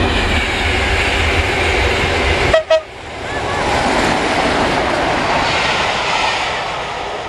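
A train passing close by at speed: a deep engine rumble in the first couple of seconds, then the rush of the passing coaches, easing toward the end. The steam locomotive Tornado in the train is being towed by another locomotive, not working under its own steam.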